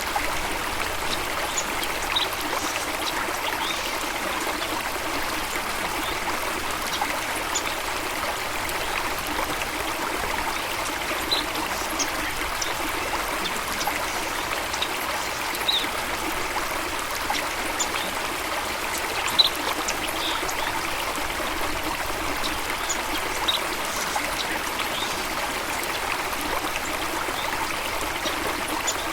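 Steady rushing of flowing water, a stream or small waterfall, with a few brief high-pitched blips scattered over it.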